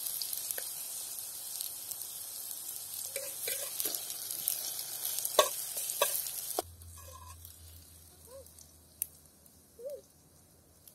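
Plantain pieces sizzling in hot oil in a clay pot, with a few sharp clicks of a knife against the pot. The sizzle cuts off suddenly about two-thirds through, leaving it quiet apart from a few faint clicks.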